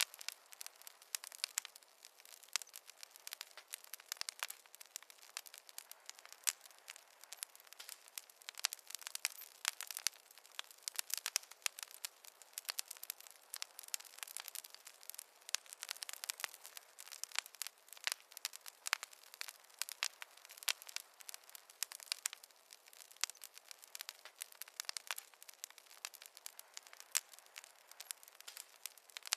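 Wood fire burning in a fireplace, crackling and popping with many small irregular snaps over a faint hiss.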